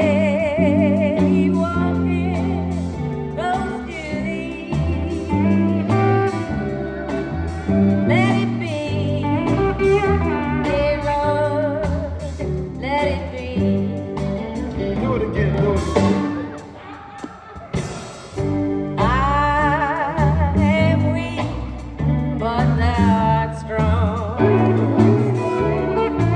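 Live sacred steel gospel band playing, with a singer's voice carrying heavy vibrato over bass and drums. The music drops back briefly about two-thirds of the way through, then returns at full strength.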